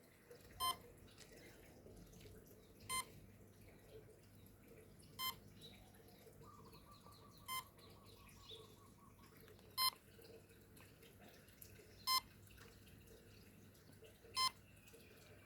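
Short electronic beeps from the RC B-2 model plane's onboard electronics, seven in all, one about every two and a quarter seconds, while the GPS is still acquiring satellites and linking to the system.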